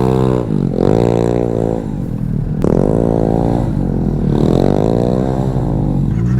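Sportbike engine revving hard, its pitch rising and falling about four times as the throttle is worked, over wind rumble.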